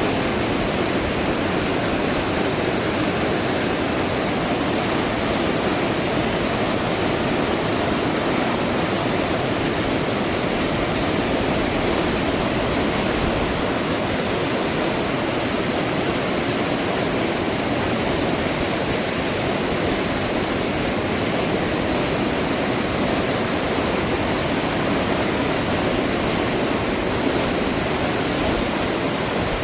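Fast-flowing river water rushing in a steady, unbroken roar.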